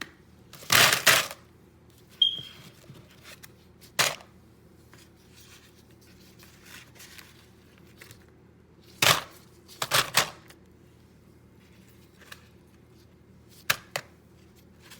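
Intermittent clatters and knocks of food and ice being handled in a bowl: a few short noisy bursts and sharp clicks, one with a brief ringing clink, spread over the span with quiet gaps between them.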